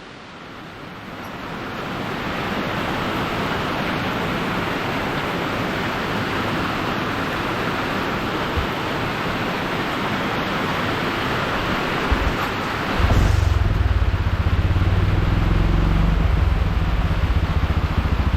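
Steady hiss of heavy rain, building up over the first couple of seconds; about 13 seconds in, a low, evenly pulsing engine rumble starts and continues under the rain.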